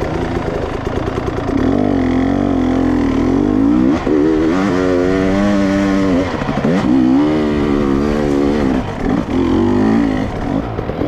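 Dirt bike engine being ridden, its pitch climbing with the throttle and dropping back several times as the rider rolls on and off.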